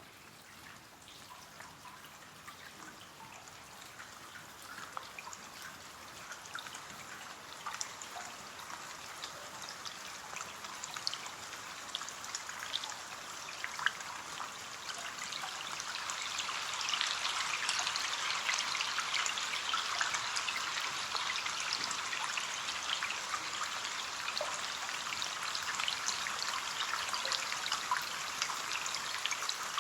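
Rain falling on a window, a dense hiss of many small drop ticks that builds gradually over the first half, then holds steady.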